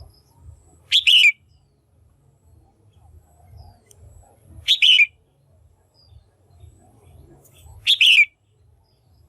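Female red-whiskered bulbul calling: three short, sharp calls about three and a half seconds apart, each a quick double note that drops in pitch.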